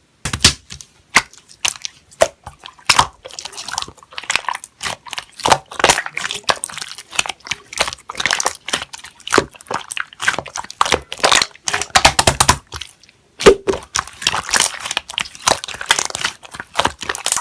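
Slime being squished and pressed by hand, making irregular sticky pops and crackles, with a brief pause about two-thirds of the way through.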